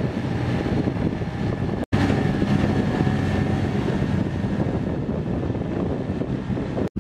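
Outboard motor running steadily as the wooden skiff moves under way, with wind buffeting the microphone. The sound cuts out for an instant twice.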